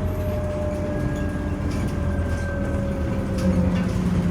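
Scania Omnicity city bus running, with a steady low engine rumble and a thin whine that slowly falls in pitch.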